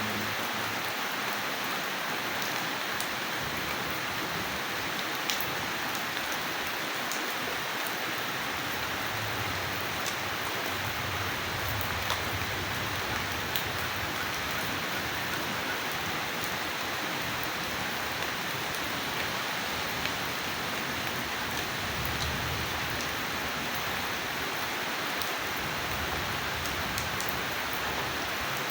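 Steady heavy rain falling, with now and then a single louder drop ticking on a surface and a faint low rumble swelling twice.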